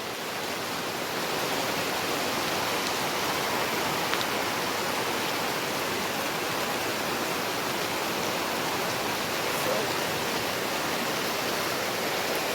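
Heavy rain pouring down steadily, a dense even hiss of falling water that swells slightly in the first second or two.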